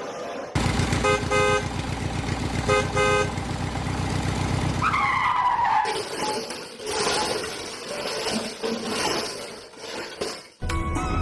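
Truck engine running with a low pulsing rumble while a horn honks twice, about a second and about two and a half seconds in. A falling squeal follows around the middle, then mixed clatter, and music starts just before the end.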